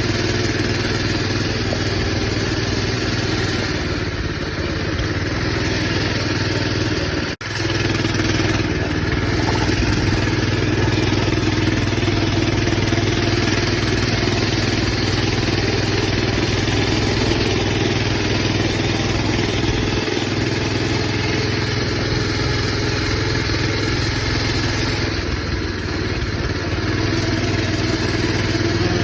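Coleman BT200X minibike's small single-cylinder four-stroke engine running steadily as the bike is ridden, easing off slightly a couple of times, with the sound breaking off for an instant about seven seconds in.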